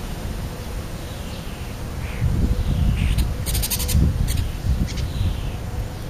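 Birds giving a few short, falling calls, with low wind rumble on the microphone that grows louder about two seconds in. A quick run of sharp ticks comes just past the middle.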